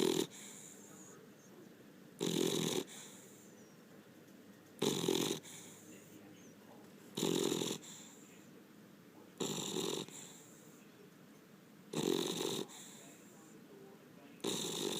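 Beagle snoring in its sleep: one short snore about every two and a half seconds, each much louder than the quiet between.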